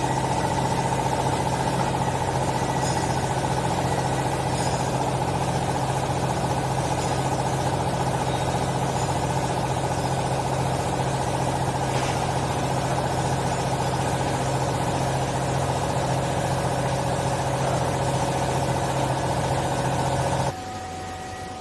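Hydraulic baling press's motor-driven pump running with a steady drone and whine, cutting off abruptly near the end.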